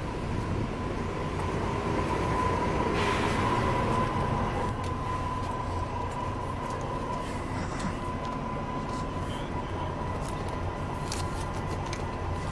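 Interior of a Volvo B9R coach on the move: low engine and road rumble with a thin, steady high tone running under it. The rumble and rushing swell louder for a couple of seconds a few seconds in, and a few short rattling clicks come near the end.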